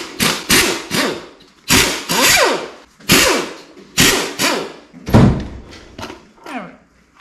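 Metal tools and engine parts knocking and clanking in a quick series of sharp impacts, some leaving a short ringing tail, as work on the engine teardown begins.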